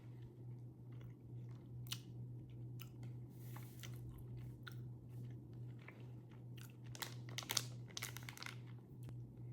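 Close, faint mouth sounds of someone chewing a soft pectin gummy candy: small wet clicks, busier in the last couple of seconds, over a steady low electrical hum.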